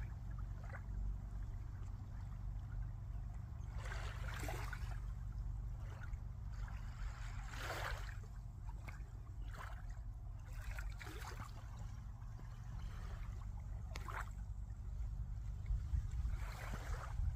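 Water splashing and lapping in several separate surges over a steady low rumble.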